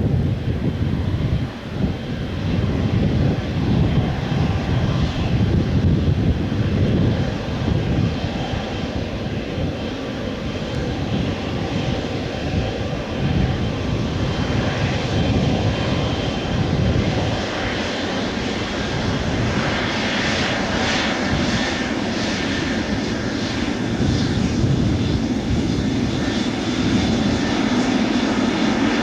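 Boeing 777F freighter's GE90 turbofans at takeoff thrust: a loud, continuous low jet rumble, with a higher-pitched roar and crackle building from about halfway through.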